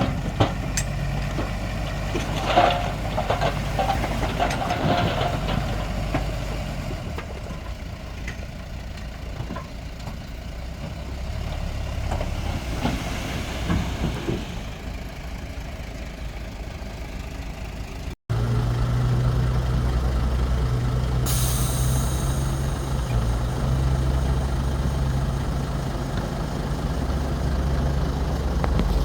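Heavy diesel engines of a bulldozer and dump trucks running, with clanks and knocks in the first few seconds. After an abrupt break about two-thirds of the way through, a steady engine hum continues, with a short hiss a few seconds later.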